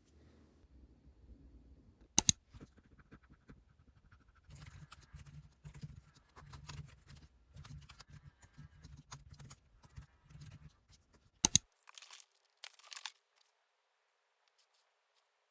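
Small handling noises: rustling and crinkling with a run of soft low thuds, and two sharp loud clicks, one about two seconds in and one near the end, before the sound cuts off.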